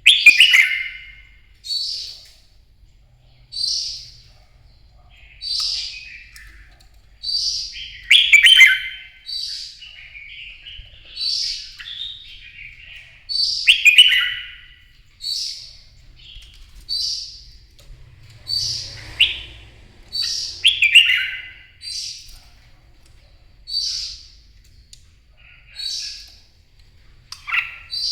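Red-whiskered bulbul singing: short, loud whistled phrases repeated about every two seconds, a few of them longer and more complex.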